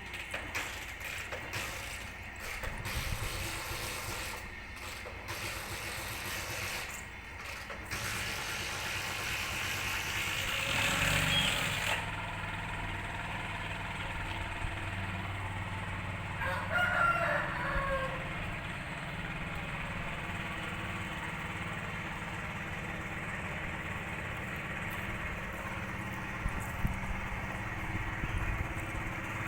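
A single bird call lasting about a second and a half, a little past the middle, over a steady low background hum.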